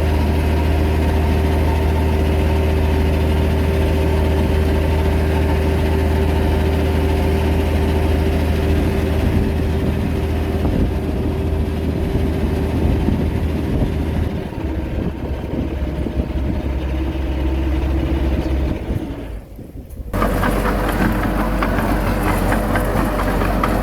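Heavy diesel engine running steadily. About two-thirds of the way through it changes to a rougher sound, cuts out sharply for about a second, then comes back with a clattery quality.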